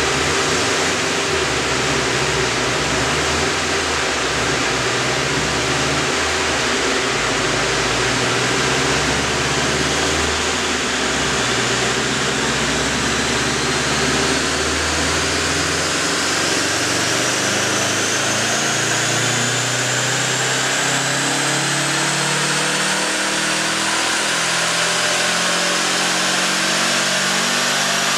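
2010 Subaru WRX STI's turbocharged flat-four, fitted with an SPT cat-back exhaust, running on a Dynojet chassis dyno in fourth gear, under a loud steady rush of noise. The engine note holds roughly level for the first half, then climbs slowly and steadily in pitch as the revs build through the gear.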